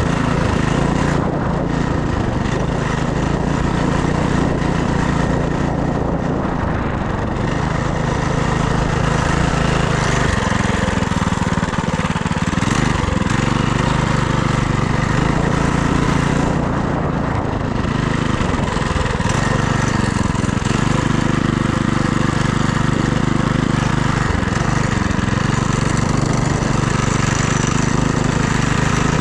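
FRP GMB100 minibike's small engine running while riding, its pitch dipping and rising again a few times as the throttle changes.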